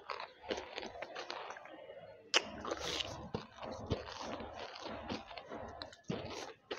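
Banslochan (tabasheer, hard chalky lumps of bamboo silica) being crunched and chewed close to a headset microphone: a dense run of sharp crackles, with one louder crack about two and a half seconds in.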